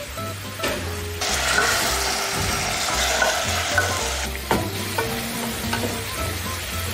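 Pumpkin and onion sizzling in a steel pot as white wine is poured in and stirred with a wooden spoon. The sizzle swells sharply about a second in and dies back after about three seconds.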